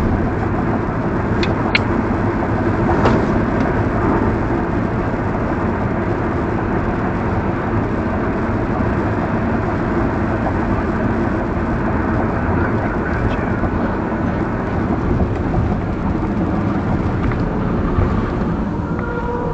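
Steady road and engine noise of a car driving, as picked up by a dashcam, with a few faint clicks.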